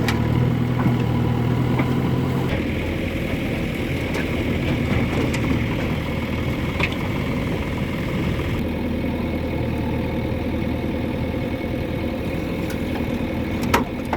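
Diesel engine of heavy loading machinery running steadily. The engine tone turns rougher and busier about two and a half seconds in, and there is a sharp click near the end.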